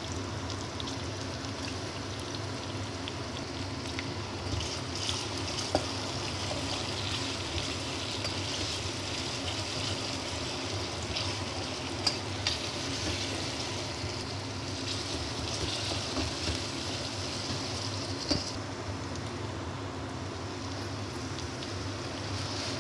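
Chopped onions with ginger and garlic frying in groundnut oil in a steel pot: a steady sizzle and crackle, with a few sharp knocks of a wooden spatula against the pot as it is stirred.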